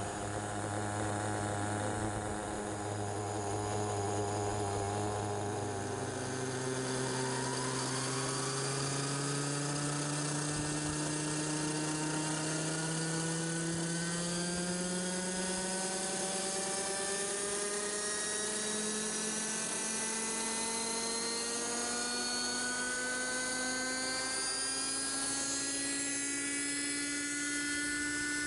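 Nitro (glow) engine of a Raptor 30 radio-controlled helicopter running with a high whine, its pitch rising slowly and steadily as engine and rotor speed climb.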